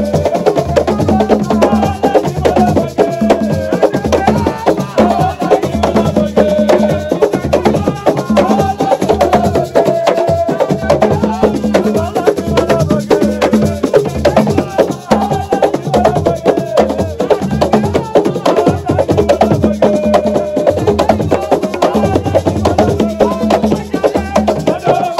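Senegalese assiko music: dense, fast drumming with sharp wood-block-like strikes, and a melody running over it throughout.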